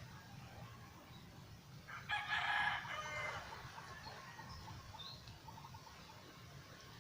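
A rooster crows once, about two seconds in, a single call lasting a little over a second. Faint short bird chirps follow.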